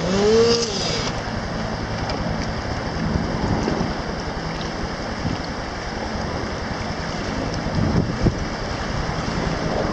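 Rescue helicopter's engine and rotors: a loud steady rushing with a low rumble. In the first second a pitched engine tone bends down, rises again and fades.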